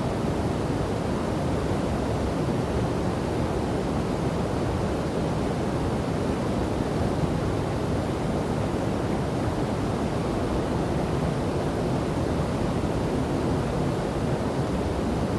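Steady, deep rush of flowing river water, even and unbroken, with no other sound standing out.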